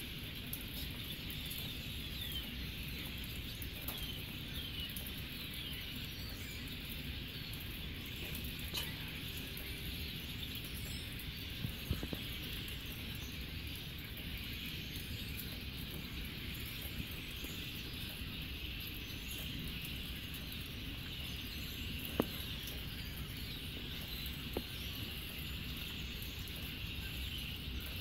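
A dense chorus of many wild birds chirping and singing at once, steady throughout, over a constant hiss of falling rain, with a few sharp ticks like drips.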